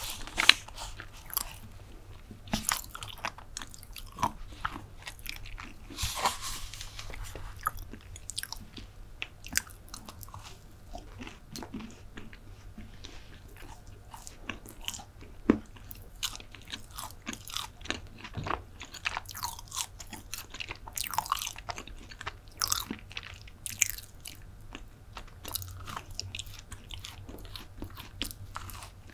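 Close-miked chewing and biting of chocolate brownie: many short, irregular mouth clicks and soft crunches, with a brief rustle about six seconds in.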